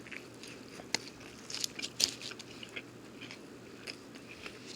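A person chewing a mouthful of breaded chicken and waffle sandwich close to the microphone, with soft, scattered crunching clicks, most of them about one to two seconds in.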